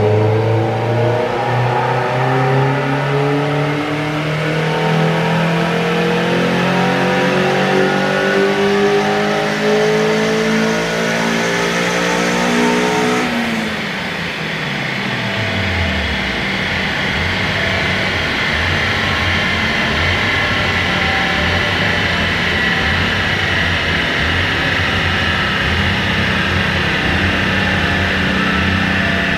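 Toyota Corolla AE86's four-cylinder engine making a dyno pull under load on a chassis dynamometer: the revs climb steadily for about thirteen seconds, then the throttle is lifted and the revs fall away over a few seconds. The engine then runs on at a steady low speed.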